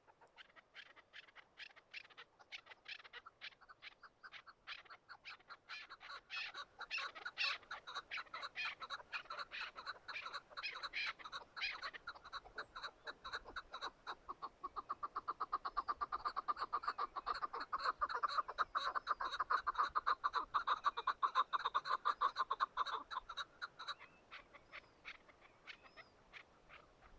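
Chukar partridge calling: a fast run of clucking "chuck" notes that builds in loudness into a dense, steady chatter and cuts off suddenly near the end.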